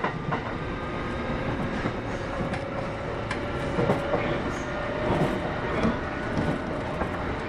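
Kintetsu 8810 series electric train running, heard from on board: a steady rumble of wheels on rail with scattered clicks of rail joints, and one steady tone rising slightly in pitch.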